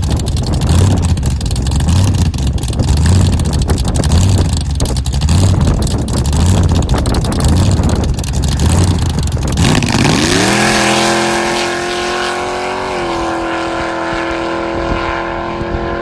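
Front-engine dragster's engine running loud and rough, with a lumpy low pulse a little more than once a second. About ten seconds in the rough sound drops away and a steady whine rises in pitch and holds.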